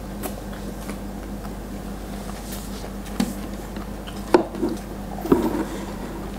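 Close-miked eating sounds: wet chewing and mouth smacks as food is eaten by hand, with a few short sharp clicks, the sharpest about four and five seconds in, over a steady low hum.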